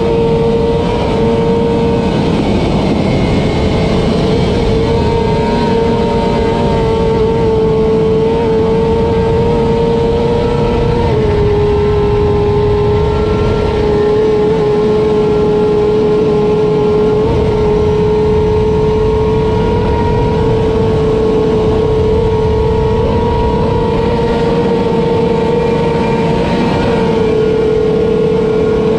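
Kawasaki ZX10R superbike's inline-four engine running hard at a steady, high pitch, with a slight dip in pitch partway through, over a rushing noise.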